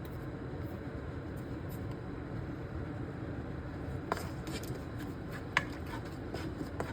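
Kitchen cooking sounds: a steady low noise, with a few sharp clicks and taps of kitchen utensils from about four seconds in.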